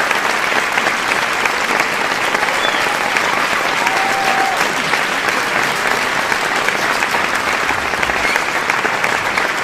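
Large audience applauding, dense continuous clapping at a steady level throughout.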